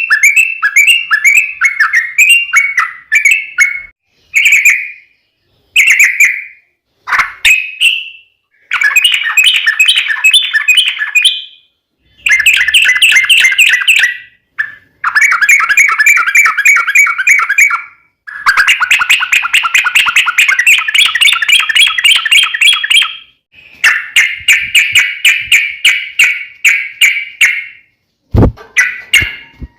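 Yellow-vented bulbul (trucukan) singing loud, rapid chattering phrases of a few seconds each, one after another with short breaks: the long fast trilling song ('ropel panjang') of a bird in fighting mood. There is a single sharp click near the end.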